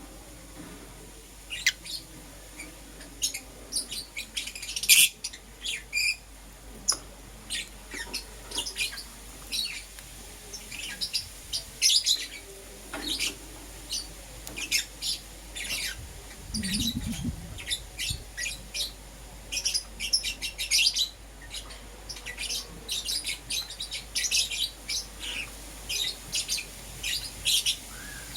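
Pet lovebirds chirping and tweeting continuously in rapid, short, high-pitched notes, with a brief low thud about two-thirds of the way through.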